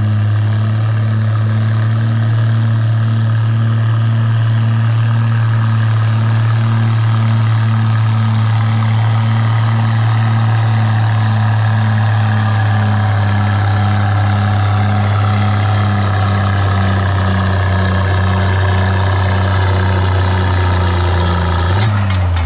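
Oliver 77 farm tractor engine running under full load as it pulls a tractor-pull sled, a steady loud drone with a pulsing beat. Its pitch slowly sags over the second half as the engine lugs down under the growing drag, then drops away near the end as the pull stops.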